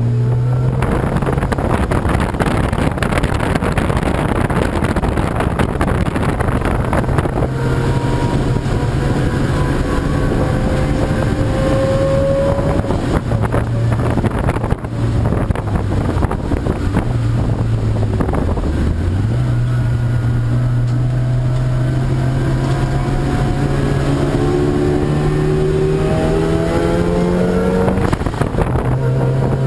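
Race car engine running continuously under load. Its pitch climbs slowly, drops sharply about 19 seconds in, climbs again, and drops once more near the end, over heavy road and wind noise.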